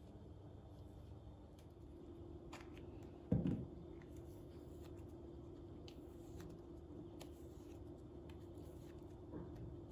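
Quiet kitchen handling sounds: one dull knock a little over three seconds in, scattered light clicks, over a steady low hum.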